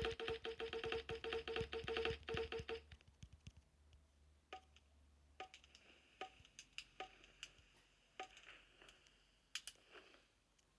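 Rapid, even clicking with a buzzy tone, about five clicks a second, stopping about three seconds in. Then a few single clicks about a second apart over a faint hiss, as when a fireplace's igniter is worked.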